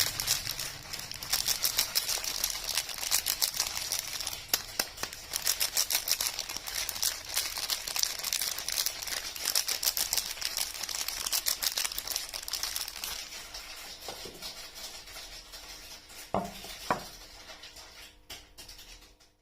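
Crinkling and rustling of soap packaging being handled and unwrapped, a dense crackle that thins out and quietens over the last few seconds.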